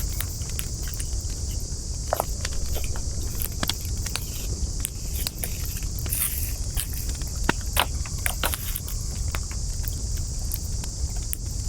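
Wood campfire crackling, with irregular sharp pops scattered through, over a steady high-pitched hiss and a low rumble.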